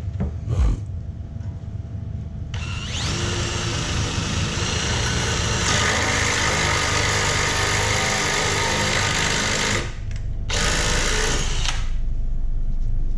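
Power drill boring out a plastic stock headlight bulb retainer so an LED bulb will fit through: one long run of about seven seconds starting a couple of seconds in, then a short second burst near the end.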